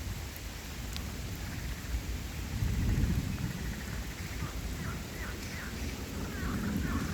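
Steady rain with thunder rumbling, swelling about two and a half seconds in. In the second half a run of short, quick calls sounds over the rain.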